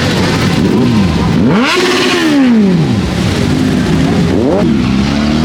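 Motorcycles riding past in a parade, several engines running together. One revs up and drops back about two seconds in, and another revs up near the end.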